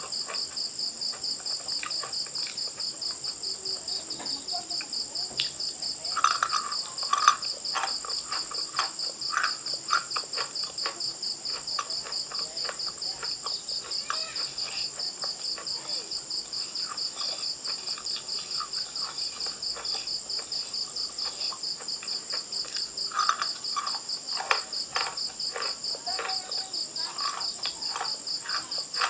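Crickets trilling steadily throughout in a fast, even pulse. Over it come two spells of crunching and chewing, a few seconds in and again past the middle: bites of eating chalk or clay.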